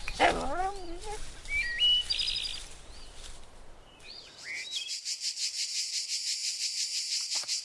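Birds chirping in short high calls, with a brief low wavering sound at the very start. About two-thirds of the way in, the birdsong gives way to crickets chirring in a rapid, even pulsing.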